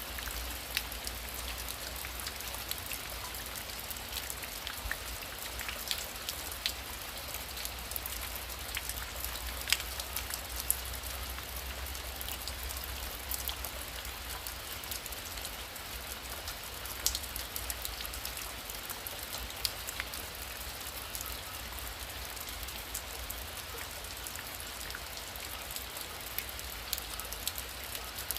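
Heavy rain falling steadily, a dense hiss with scattered sharp ticks of individual drops hitting a surface.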